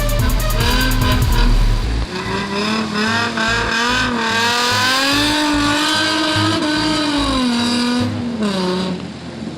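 Nissan 350Z's VQ35DE V6 engine revving up and down, its pitch rising and falling, over background music with a steady bass beat.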